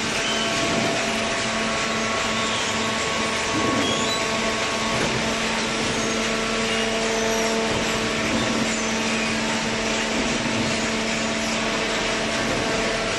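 Hydraulic baling press's power unit (electric motor and hydraulic pump) running: a steady hum over a broad mechanical whirr, constant throughout.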